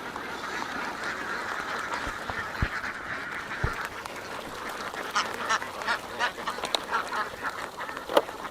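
A large flock of farmed ducks quacking together in a dense, continuous chatter; from about five seconds in, separate louder quacks stand out from the mass.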